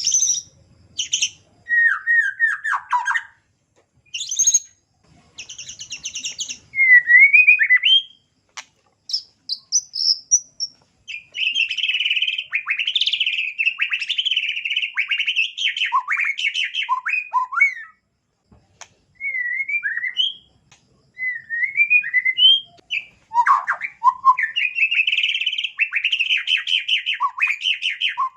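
White-rumped shama (murai batu) singing a long, varied song. Short separate phrases and sliding whistled notes come first, then rapid chattering runs about eleven seconds in and again from about twenty-three seconds.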